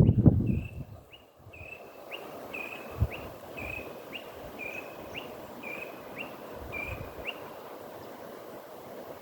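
A bird calling a steady series of short, high two-part notes, a quick upswept note followed by a level one, about twice a second, stopping about seven seconds in, over a steady hiss of wind. A single low thump sounds about three seconds in.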